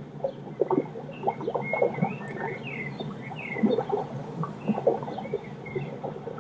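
Nature ambience: small birds chirping repeatedly in short high calls over a busy, irregular trickle and splash of water.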